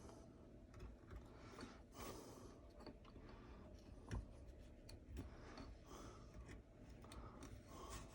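Faint, irregular scraping strokes with a few light clicks, typical of hand tools working a wooden gunstock.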